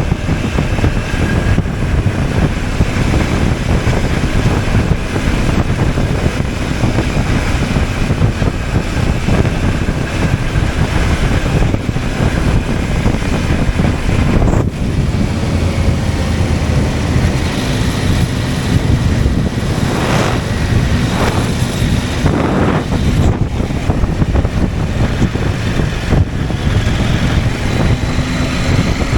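CFMOTO 800MT's 799 cc parallel-twin engine running steadily as the motorcycle rides along, mixed with wind rushing over the camera microphone.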